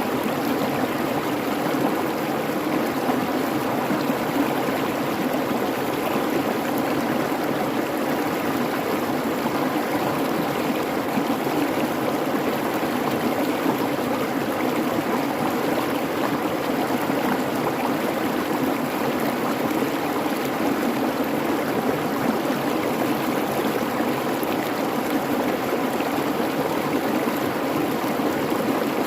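Babbling creek, water running steadily over rocks in an even, unbroken rush.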